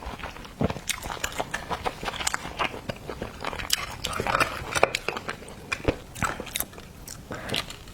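Close-up mouth sounds of someone eating cooked oysters: wet chewing and smacking, with irregular short clicks throughout.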